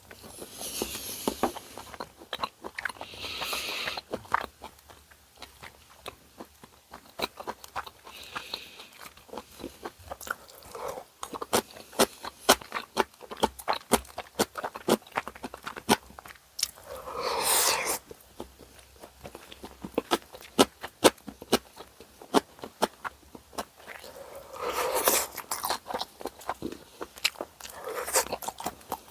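Close-miked chewing of bossam (boiled pork with crunchy wraps and kimchi): quick wet mouth clicks throughout, with several louder crunchy bites spaced a few seconds apart.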